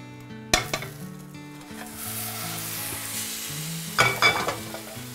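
Egg and minced-pork omelette sizzling in hot oil in a frying pan as its uncooked side goes back down to fry, the hiss building about two seconds in. A sharp knock of pan against plate about half a second in, and a louder clatter of the plate and pan about four seconds in.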